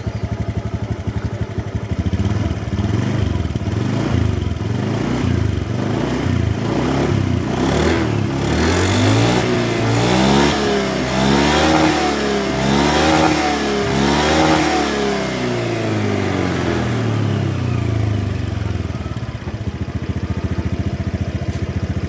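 Honda Beat FI scooter's single-cylinder engine idling, then revved over and over, the pitch rising and falling with each throttle blip, most busily in the middle, before settling back to idle near the end. It runs normally on freshly replaced crankshaft bearings.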